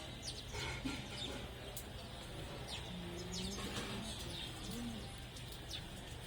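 Doves cooing softly a few times around the middle, low and smooth, while sparrows chirp in short, scattered high notes.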